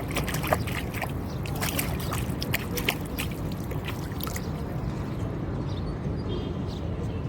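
Seawater sloshing and splashing over a steady low rumble of surf and wind, with a run of short, sharp crackling splashes in the first half.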